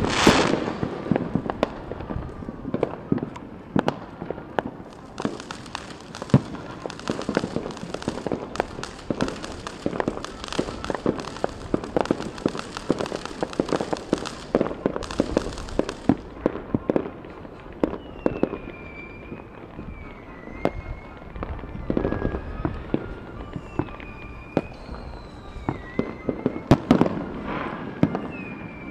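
Fireworks going off: a steady run of pops and bangs, with a loud bang at the start and another near the end.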